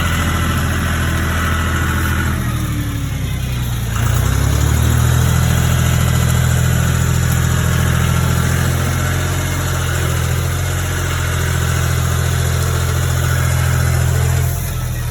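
Tractor engine running steadily under load while working a front loader bucket. Its note sags for a couple of seconds, comes back up about four seconds in, and eases off near the end.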